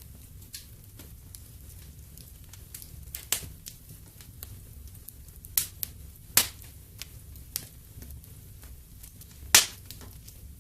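Wood fire burning in a fireplace, with a low steady rumble and irregular crackles and pops. Four louder sharp pops stand out, the loudest one near the end.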